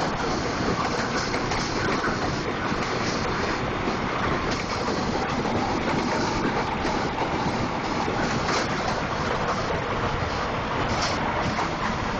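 Heavy hailstorm: a dense, steady clatter of large hailstones pounding down, mixed with wind.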